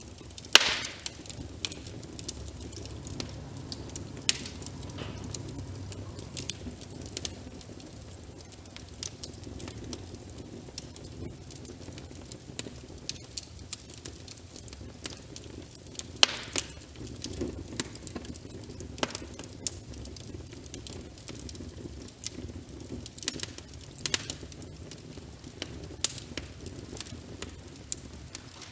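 Wood fire crackling with many sharp, irregular pops, the loudest about half a second in and again near the middle, over a steady hiss of rain.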